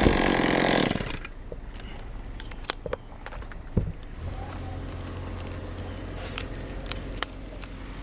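Chainsaw running loud, cutting off abruptly about a second in. A low steady engine hum and scattered small clicks and knocks follow.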